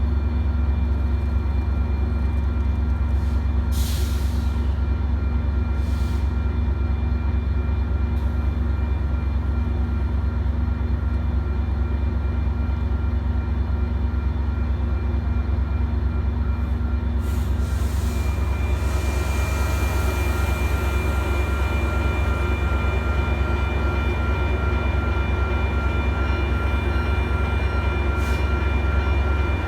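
Metra commuter train running with a steady, heavy low rumble. A few short clicks come in the first few seconds, and steady high-pitched whining tones grow in over the last third.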